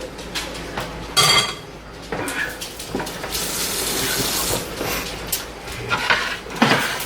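Serving utensils clinking and scraping against plates and dishes as food is dished up, with a loud ringing clink a little over a second in and a sharp knock near the end.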